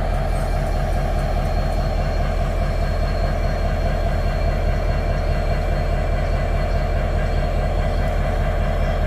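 Freight train running past with a steady, loud rumble, and a thin, steady high-pitched squeal from the wheels on the rails.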